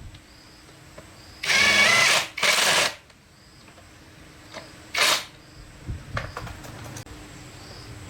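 Electric power drill run in three short bursts, whining up in pitch each time, followed by a few light clicks and knocks of tool handling.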